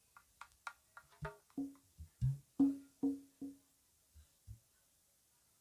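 Percussion of a qasidah group sound-checked through a PA: a quick run of about a dozen single drum strokes, moving from sharp high slaps down to lower pitched drum tones and deep bass thumps, stopping about four and a half seconds in.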